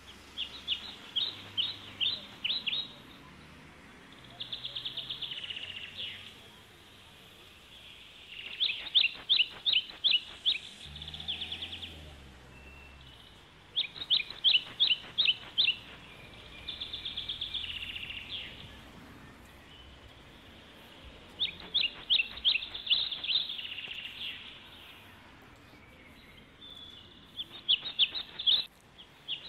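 A songbird sings loud phrases every few seconds. Each phrase is a quick run of high, downward-sliding notes, about four a second, sometimes joined by a buzzy trill, with short pauses between phrases.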